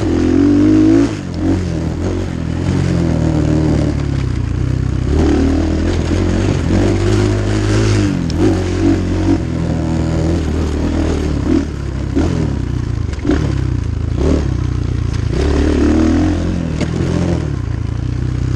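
A Templar 250cc Chinese dirt bike engine under hard throttle on a trail ride, its pitch climbing and dropping again and again as the rider accelerates, shifts and backs off. Occasional sharp knocks and clatter come through over the engine.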